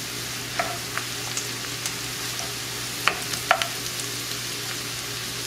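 Sliced onions and garlic sizzling in oil in a cast-iron skillet, stirred with a wooden spoon that clicks sharply against the pan a few times.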